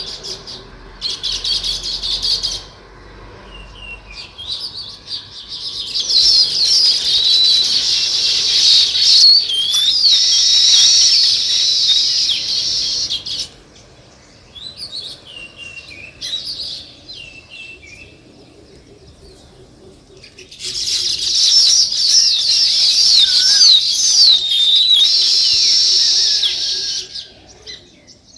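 A flock of small songbirds chirping and chattering together in three loud, dense bursts of several seconds each, with quieter scattered chirps between them.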